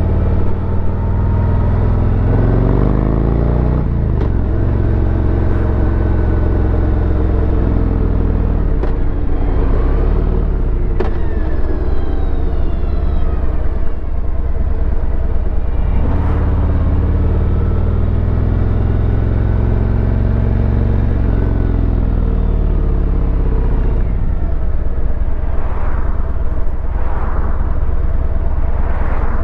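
Harley-Davidson Road Glide's V-twin engine running hard, its pitch repeatedly climbing and then dropping as the bike accelerates and passes.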